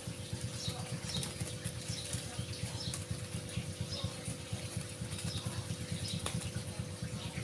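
A caged bird fluttering its wings in rapid, irregular beats as it is caught to be taken out, with short faint chirps about once a second and a few light clicks.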